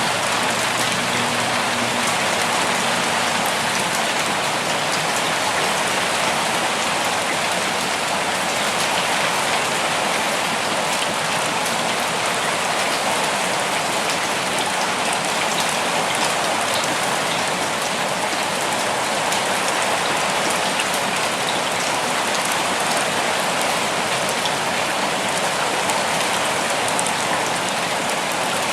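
Steady rain falling: an even hiss of rain with a dense patter of individual drops that does not let up.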